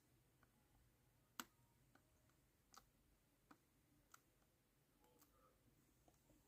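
Near silence with a few faint, scattered clicks, the clearest about a second and a half in.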